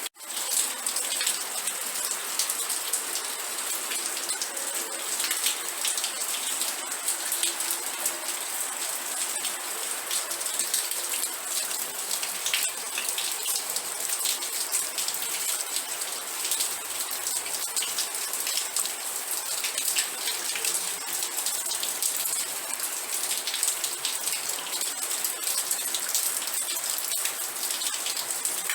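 Steady rain, individual drops clicking on a hard surface over a dense hiss. It cuts out for an instant right at the start.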